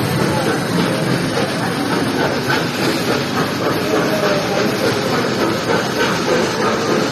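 Ride-on train running steadily: a continuous rumbling hiss with no clear beat.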